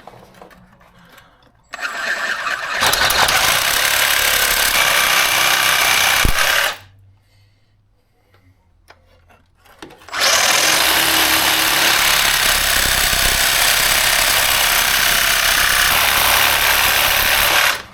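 Sawzall reciprocating saw cutting through steel rivets on a truck's frame bracket, in two long runs of about five and seven seconds with a pause of about three seconds between them.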